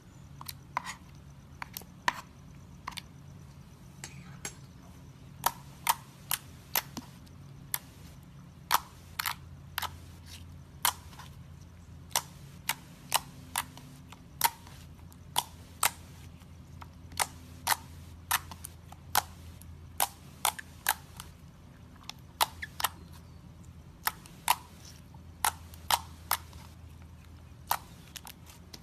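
Slime being handled, making sharp popping clicks at irregular intervals, about one or two a second.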